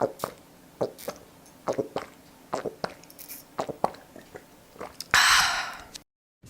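Irregular light taps and clicks, about a dozen, followed by a hissing burst about a second long that cuts off abruptly.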